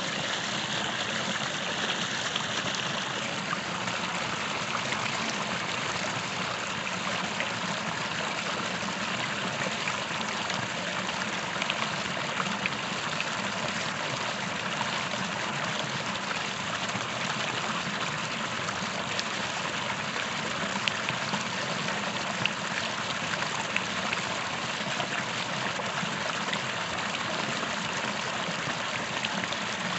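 A creek running: steady, even rushing and trickling of water over stones, with small splashes here and there.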